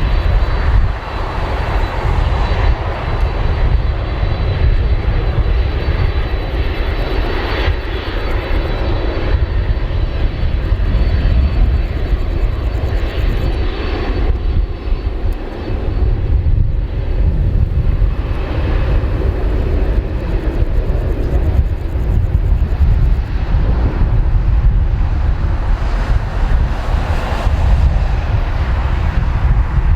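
Four jet engines of a Boeing 747-400 freighter at takeoff power: a loud, steady rushing rumble, heaviest in the deep bass, with a faint steady high tone above it.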